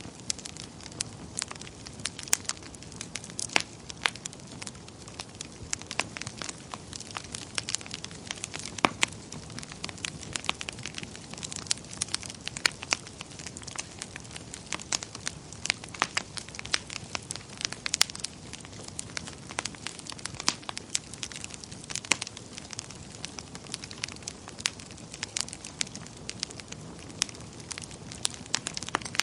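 Wood fire crackling in a fireplace: many sharp, irregular pops and snaps over a steady low hiss.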